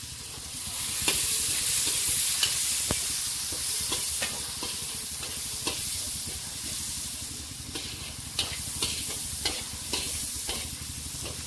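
Chopped tomatoes sizzling in hot mustard oil and fried spices in a kadhai, the sizzle swelling about a second in as they go in. A slotted metal spoon scrapes and taps against the pan over and over as they are stirred.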